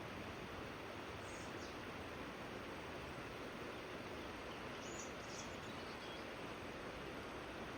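Steady rushing of river water, with faint high bird chirps about a second in and again around five seconds in.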